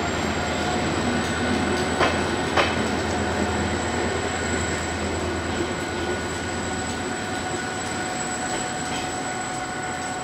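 Diesel-hauled local passenger train rolling past, its wheels giving a thin, steady, high-pitched squeal. Two sharp clicks of wheels over a rail joint come about two seconds in, and a low rumble drops away about seven seconds in.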